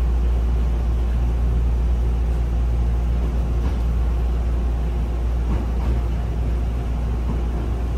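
Steady low rumble and even noise of a Hankyu train at a station, with no clear change in level.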